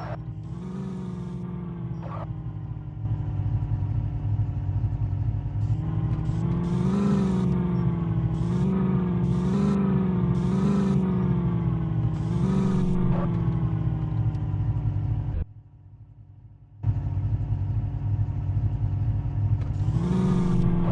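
Tractor engine running with a steady throb, given a series of short revs in the middle. It cuts out abruptly for a little over a second and then runs on.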